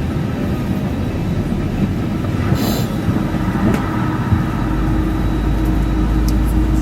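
Steady cabin noise inside an Airbus A320 before pushback: the rush of ventilation and machinery hum. About three seconds in a steady hum joins, and about a second later a deep low rumble sets in and holds.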